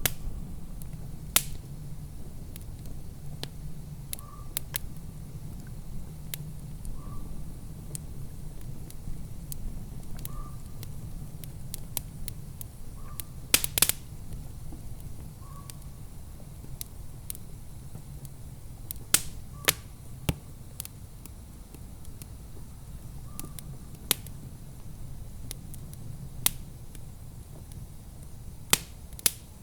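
Wood fire crackling in a fireplace: sharp, irregular pops and snaps over a steady low rumble, with a cluster of louder pops about halfway through.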